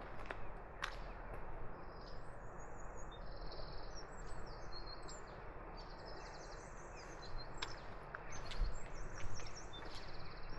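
Small birds singing, with repeated short notes and trills, over a steady outdoor background hiss, with a few sharp clicks.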